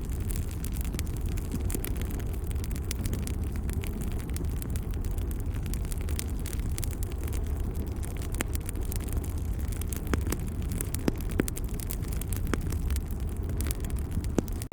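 Wood fire crackling: a steady low rumble of the burning fire with scattered sharp pops and snaps every second or so.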